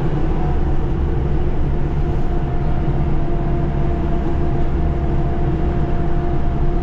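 Steady engine and tyre noise inside a Subaru car's cabin while driving on a snow-covered road, with a faint steady hum in it.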